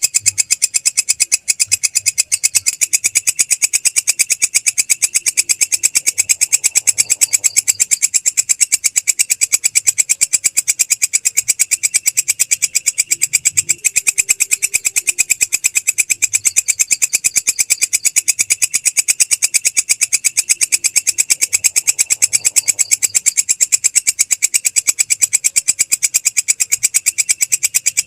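Belalang krek grasshopper calling: a steady, rapid, high-pitched train of dry clicks, about ten a second, unbroken throughout.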